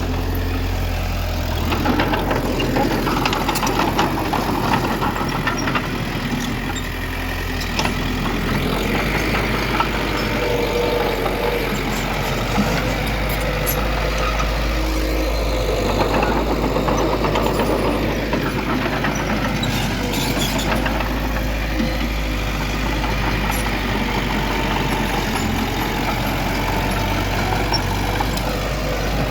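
Heavy diesel earthmoving machinery, bulldozer and dump trucks, running steadily, with occasional short knocks.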